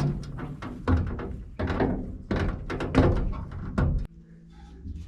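A series of hard knocks and thuds, about six over four seconds, like doors or metal parts being handled, then a low steady hum near the end.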